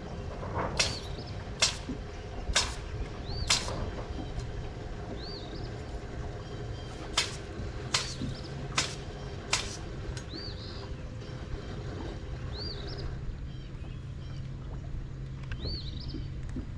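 A bird calls repeatedly with short, high, arched chirps over a steady low hum. Two runs of four sharp clicks, a little under a second apart, come near the start and around the middle, and are the loudest sounds.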